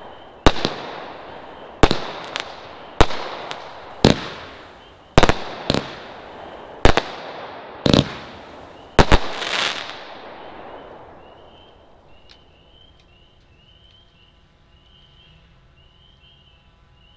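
A consumer fireworks cake firing: about eight sharp bangs, roughly one a second, each trailed by a rolling echo, the last two close together about nine seconds in. The firing then stops and the echo dies away, leaving faint, high, repeated beeping.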